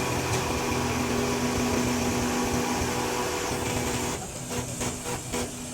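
A steady mechanical hum with a whine and hiss from a running motor, which breaks off in several short gaps after about four seconds.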